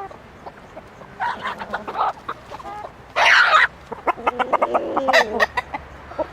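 Chickens clucking in short bursts, with one loud harsh call about three seconds in.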